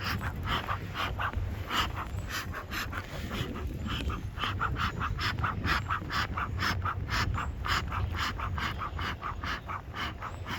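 Bee smoker bellows being pumped, a quick even run of air puffs about three a second with a short pause about three seconds in, driving smoke over the open hive so the bees move down below.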